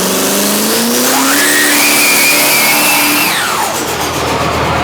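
Drag-racing vehicle's engine at full throttle, pitch climbing steadily with a high whine over it, then dropping away sharply about three and a half seconds in.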